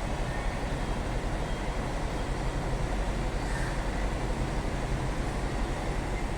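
Scania truck's diesel engine running steadily while driving, with road noise; an even low rumble that holds without change.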